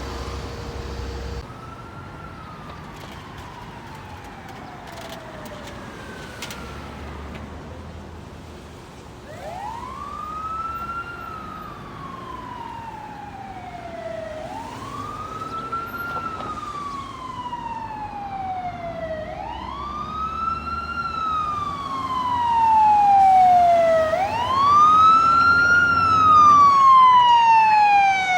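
Fire truck siren wailing as it approaches, growing louder: each cycle rises quickly and then falls slowly, about every five seconds.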